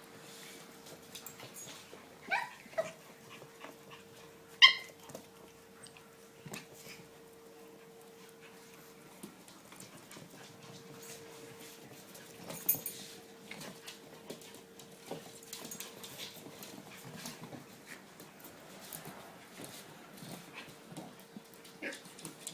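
Seven-week-old poodle-terrier mix puppies at play, giving a few short high-pitched yips and whimpers: two a couple of seconds in, the loudest at four and a half seconds, and another near thirteen seconds. Soft clicks and scuffles come between them.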